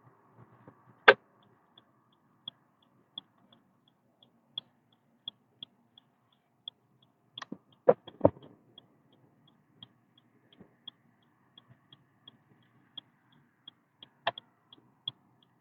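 A car's turn-signal indicator ticking in the cabin, an even, rapid high tick about three times a second. A few louder knocks sound about a second in, twice close together near the middle, and once near the end.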